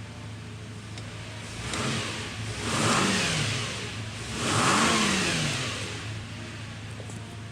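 Subaru Outback's boxer engine idling steadily, then revved up twice and allowed to drop back to idle each time.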